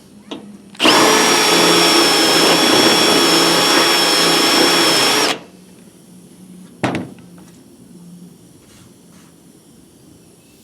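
Electric drill running steadily with a high motor whine for about four and a half seconds, drilling a pilot hole through a spot weld in a truck's roof sheet metal, then a brief burst of the drill about two seconds later.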